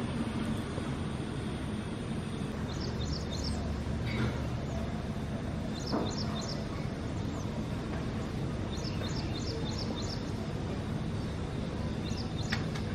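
Short, quick runs of high bird chirps, heard four times, over a steady low background rumble.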